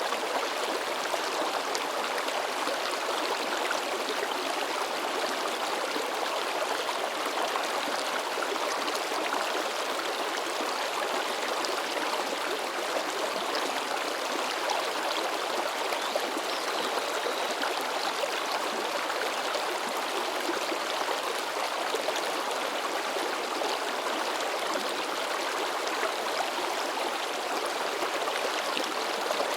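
A river babbling and splashing over rocks, a steady dense rush of water with constant small splashes and gurgles.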